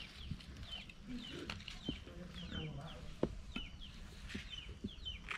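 A small bird chirping repeatedly: short, high calls about twice a second. A few light knocks come through as small offering cups and items are set down on the ground, the sharpest about three seconds in.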